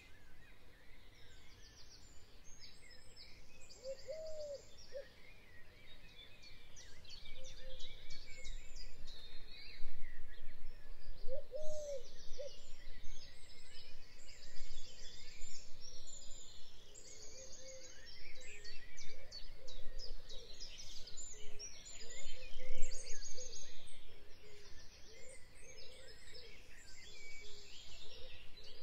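Several birds chirping and trilling over a faint low hum, with many quick high calls and a lower, arching call twice, about 4 and 12 seconds in.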